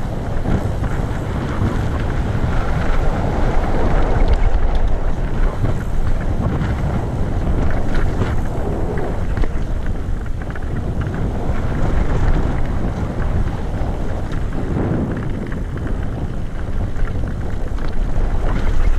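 Wind rumbling on the camera microphone during a mountain bike ride, with scattered knocks and rattles from the bike over the trail.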